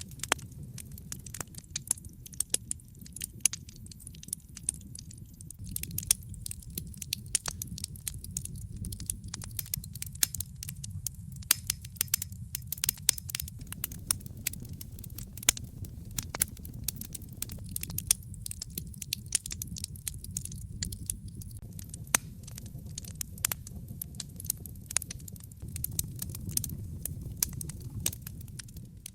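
Fire crackling in a fireplace: many sharp, irregular pops and snaps over a steady low rumble of the burning fire.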